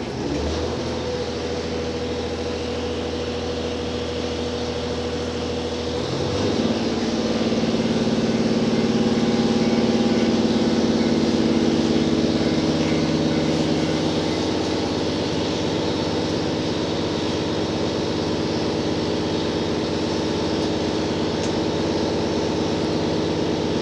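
Inside a JR Hokkaido H100 diesel-electric railcar: the diesel engine runs at a low, steady idle, then about six seconds in it steps up to a higher, louder speed as the train pulls away from the station, and holds that steady note.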